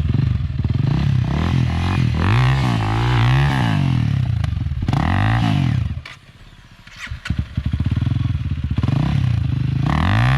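Off-road dirt bike engine revving up and down repeatedly as the throttle is worked while it pushes up a climb. About six seconds in, the engine sound drops away for about a second, with a few clicks, and then the revving picks up again.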